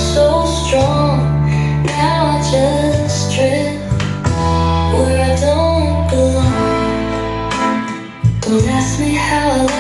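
A song with a female lead vocal over heavy, sustained bass notes, played back through PSB Image 5B bookshelf speakers.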